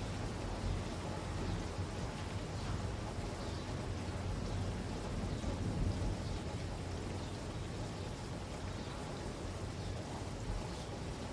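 Steady rain falling, with faint scattered drop sounds over a low, constant rumble.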